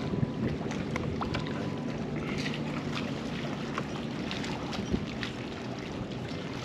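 Wind on the microphone and water lapping around a kayak's hull, with a few faint small clicks.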